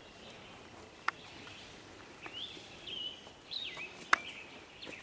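Quiet outdoor ambience with birds chirping in short rising and falling calls during the second half, and two brief sharp clicks, one about a second in and one about four seconds in.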